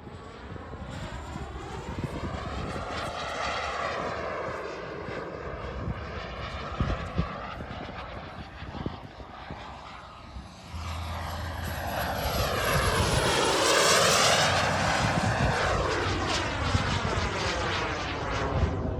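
JetCat P300 Pro turbine of a BVM Desperado RC jet flying past twice, its whine and jet noise rising and then falling in pitch with each pass. The second pass, about three-quarters of the way through, is louder.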